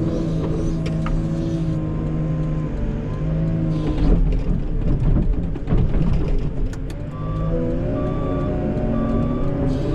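Cat 906 wheel loader's diesel engine running steadily under load, with a stretch of rumbling and knocks partway through as the bucket works. Near the end a reversing alarm starts beeping about once a second.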